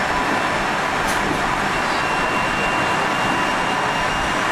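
Interior running noise of a JR 373 series electric multiple unit, motor car KuMoHa 373-11 with MT68 traction motors. The train runs with a steady rumble and faint steady whining tones, and there is a brief high click about a second in. This car is the one the uploader singles out for a striking abnormal noise.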